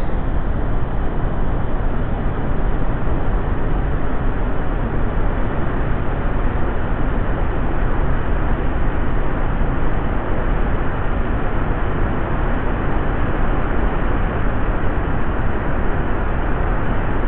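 Steady, loud rushing noise with a deep rumble and no distinct events, dull and muffled with its top end cut away.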